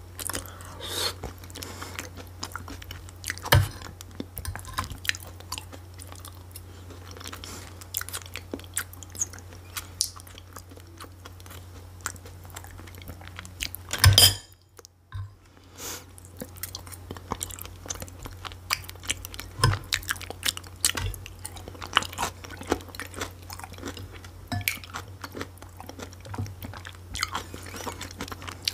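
Close-miked chewing and wet mouth sounds of eating soft mashed potato and cabbage rolls, with short clicks throughout. Just past halfway comes a louder clatter of the fork against the plate, then a brief lull. A steady low hum sits underneath.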